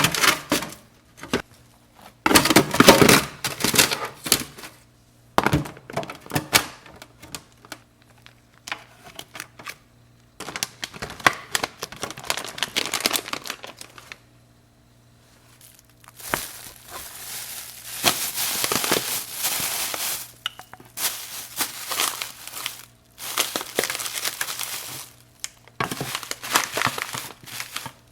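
Plastic food packaging crinkling and rustling in irregular bursts while being handled, with small clicks and knocks, and a brief lull about halfway through.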